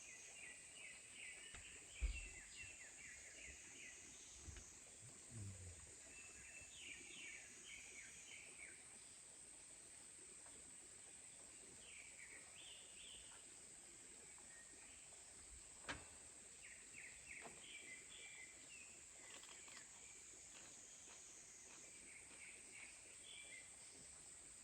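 Faint forest ambience: small birds chirping in short, twittering runs over a steady high insect buzz. A soft low thump comes about two seconds in, and a single sharp click comes past the middle.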